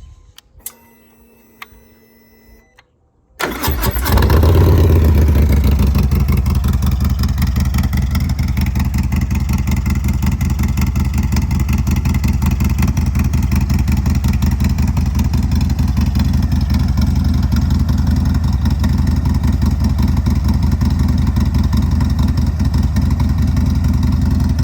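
A faint hum and a few clicks, then about three and a half seconds in, a Harley-Davidson Milwaukee-Eight 117 V-twin with a Woods 22XE cam and TBR exhaust cranks, fires on a cold start, and settles into a steady, even idle.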